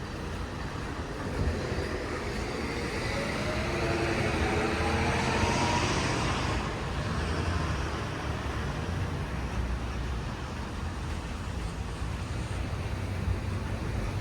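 A motor vehicle driving past, its engine rising in pitch as it speeds up, loudest about five to six seconds in and then fading, over a steady low rumble of city traffic.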